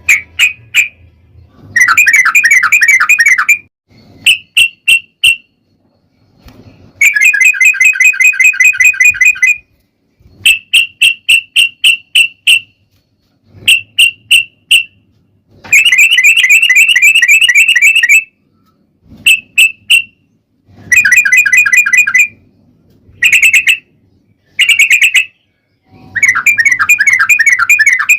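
Yellow-vented bulbul (trucukan) singing loudly in a long series of rapid, repeated chattering phrases. Each phrase lasts about half a second to two and a half seconds, with short pauses between them.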